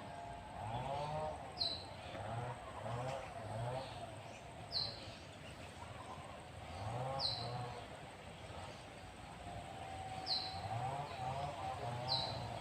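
A bird repeating a short, high, falling chirp every two to three seconds over outdoor background noise.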